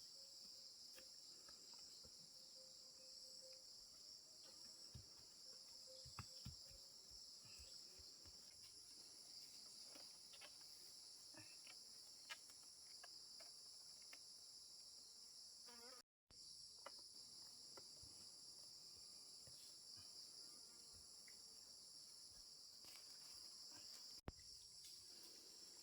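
Faint, steady, high-pitched chorus of insects trilling, with a few scattered faint clicks. The sound cuts out for an instant about two-thirds of the way through.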